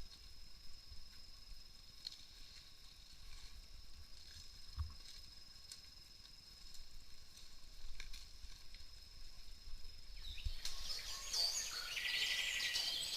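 Outdoor rural ambience with a steady high-pitched tone throughout. About ten seconds in, it is joined by a louder stretch of bird chirping.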